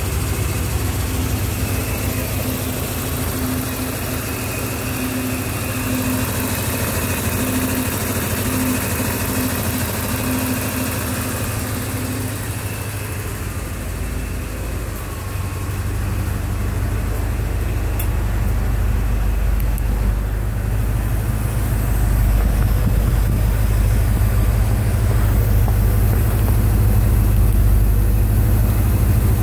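1989 Porsche 928 S4's 5.0-litre V8 idling steadily, running again after seven years of sitting. It grows a little louder and deeper about halfway through, and is loudest close to the exhaust tailpipe near the end.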